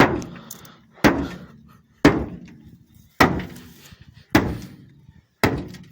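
Axe blows striking a Peugeot 406's car body, six heavy strikes about one a second, each ringing briefly and dying away.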